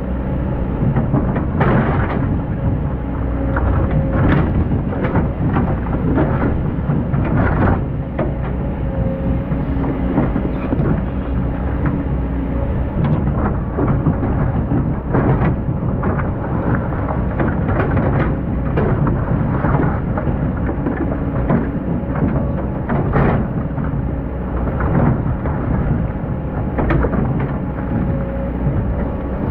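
Excavator's diesel engine running and working, its pitch rising and falling, with irregular sharp knocks and scrapes from the bucket digging sand.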